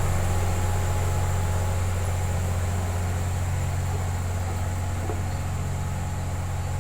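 Diesel engine of a piece of road-building heavy equipment running steadily with a deep hum, slowly easing a little quieter.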